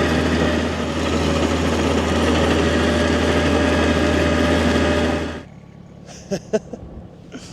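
Tractor engine running steadily while tilling, a loud, even hum that cuts off abruptly about five seconds in. A much quieter background follows, with a few faint clicks.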